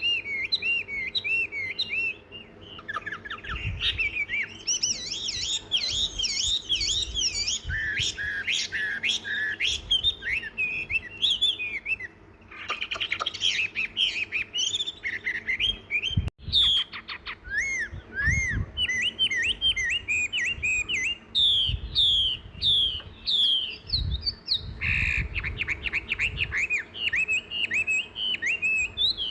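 Several songbirds chirping and calling continuously: a dense run of short, quick notes that rise and fall in pitch, with a momentary break about halfway through.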